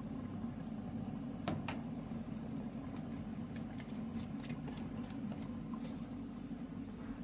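A steady low motor hum, like an engine idling, with scattered sharp clicks over it; the loudest click comes about one and a half seconds in.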